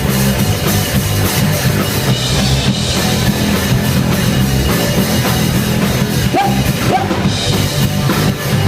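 Rock band playing an instrumental passage, a drum kit driving a steady beat under guitar and bass, with no singing. Two short rising slides come in about six and a half seconds in.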